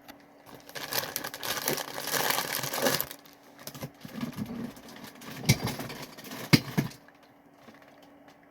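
Crinkling of a foil snack bag of popcorn being handled and rummaged in for about two seconds. Then scattered crackles and a few soft knocks as handling continues.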